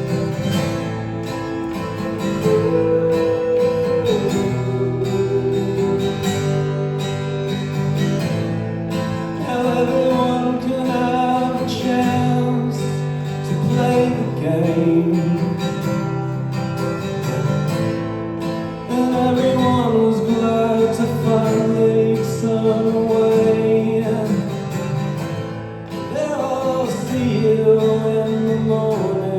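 Live performance of a song, led by a strummed acoustic guitar with sustained melody notes gliding over held chords, in a passage without sung words.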